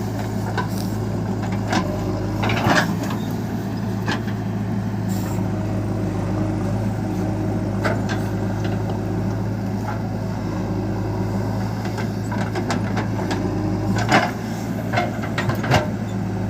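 Heavy diesel engine running steadily at an even speed, with a few short metallic clanks or knocks, the loudest near the end.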